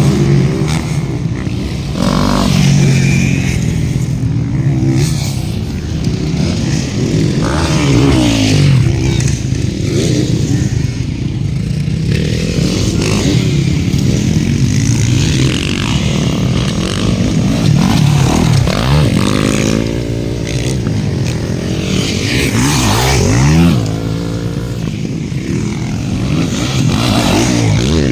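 Motocross dirt bikes racing, their engines revving up and down again and again as they accelerate and shift.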